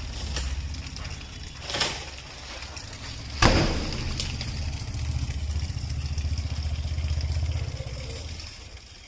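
A loud, sharp crash about three and a half seconds in, ringing out briefly, after a smaller knock near two seconds, over a low steady rumble.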